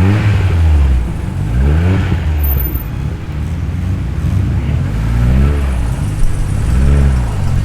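Performance car engine idling with a heavy low rumble, blipped four times so the revs rise and fall: near the start, about two seconds in, and twice near the end.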